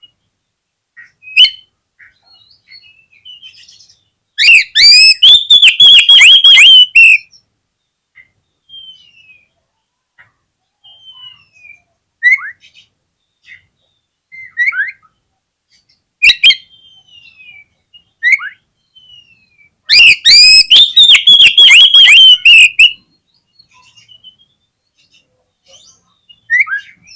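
Oriental magpie-robin (kacer) singing: two loud bursts of rapid, repeated falling notes, each about three seconds long, with soft scattered whistles and chirps between them.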